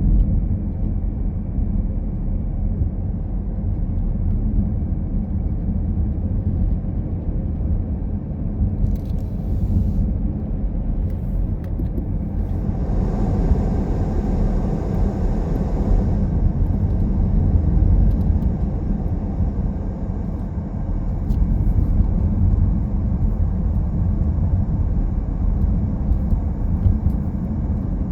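Car driving along a road: a steady low rumble of road and engine noise. About halfway through, a louder rushing hiss swells in for about three seconds and then drops away.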